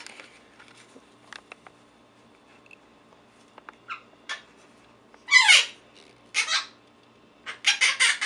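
Quaker parrot (monk parakeet) calling: a few faint clicks, then a loud squawk that falls in pitch about five seconds in, another loud call a second later, and a quick burst of chattering calls near the end.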